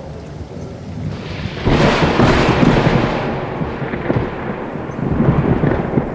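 Thunder over rain: a clap breaks in under two seconds in and rolls on as a long rumble, then swells again near the end.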